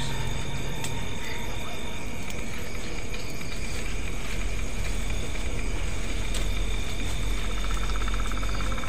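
Crickets and other night insects trilling steadily over a continuous hiss, with a faster pulsing trill joining in near the end.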